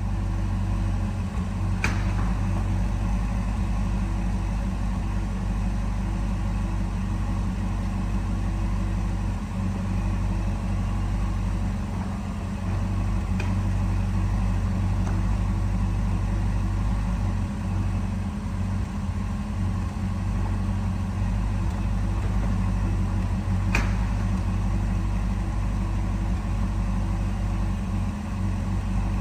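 Ferrari California T's 3.9-litre twin-turbo V8 idling steadily, with a faint click about two seconds in and again near the end.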